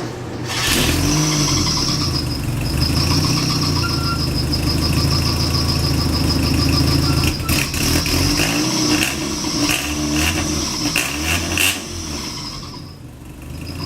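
NA Miata four-cylinder engine running through a newly fitted home-made exhaust with a Toyota truck muffler, revved up and down several times, with a high steady whine over it. A few sharp clicks come in the second half, and the engine drops away near the end.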